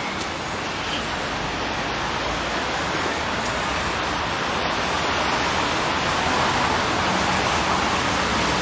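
Steady rain falling on a city street, an even hiss that grows a little louder toward the end.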